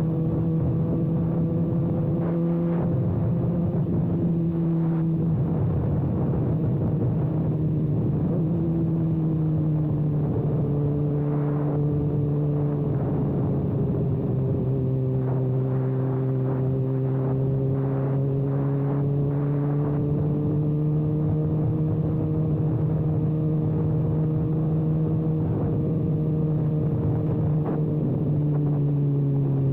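Kawasaki ZX-6R's inline-four engine running with its exhaust canister removed, held at a fairly steady speed while riding. The engine note eases down a little in steps, then rises and falls slowly.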